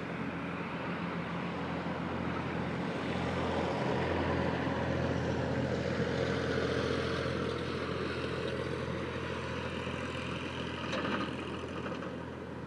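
A motor vehicle passing, its low engine hum and noise swelling to a peak midway and then fading away. A brief click sounds near the end.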